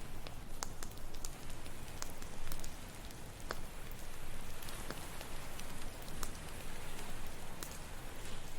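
Campfire crackling, with sharp irregular pops scattered over a steady rush of ocean surf.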